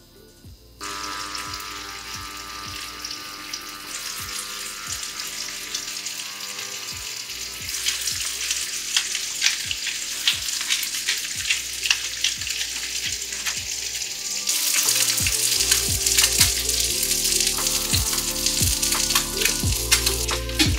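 Bluefin tuna steak sizzling as it sears in hot olive oil in a frying pan, the sizzle starting suddenly about a second in and growing louder in steps, full of sharp crackles of spitting oil.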